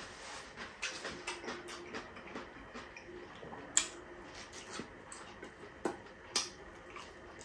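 Close-up eating sounds of a man biting into and chewing a piece of fried pork chop held in his hand: wet mouth smacks and scattered sharp clicks, the loudest about four seconds in as he bites.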